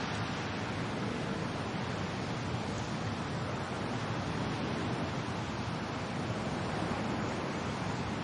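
Steady wind and rain: an even rushing hiss that holds at a constant level, with no separate drops or gusts standing out.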